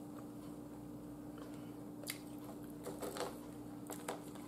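Faint chewing and mouth sounds of someone eating air-fried chicken wings and crinkle-cut fries, with a few soft clicks as fingers pick at the food on the plate. A steady faint hum runs underneath.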